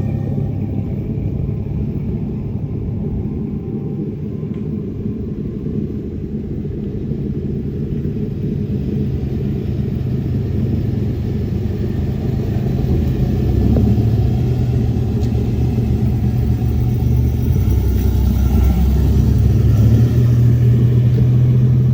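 A car engine running with a steady low rumble, growing louder in the second half.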